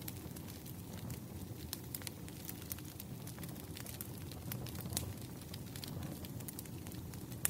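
Wood fire in a fireplace crackling: irregular sharp pops and snaps over a steady low rush of the flames, with a louder pop about five seconds in and another near the end.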